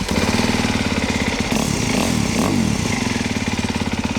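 Dirt bike engine idling with a fast, even pulse, its pitch briefly rising and falling about two seconds in.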